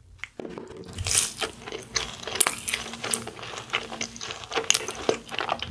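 Biting into and chewing a sauce-dipped fried cheese ball, with dense, irregular crunching that starts about half a second in and carries on.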